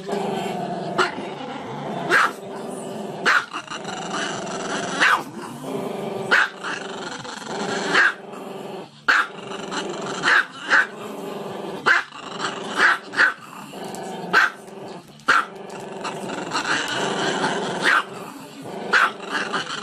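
Small black-and-tan dog with its head thrown back, giving long drawn-out howling, growly calls broken by short sharp barks about once a second.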